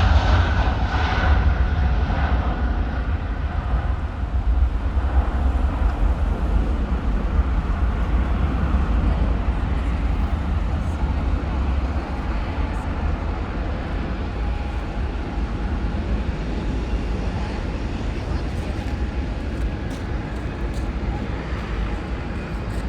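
Jet airliner's engine noise dying away after a pass: a whine that fades within the first couple of seconds, leaving a steady deep rumble that slowly grows quieter.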